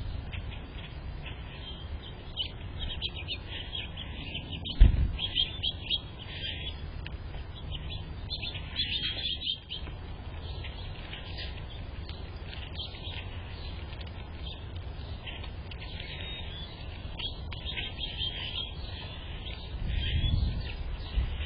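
Small birds chirping in quick, repeated short calls, with a single low thump about five seconds in and a brief low rumble near the end.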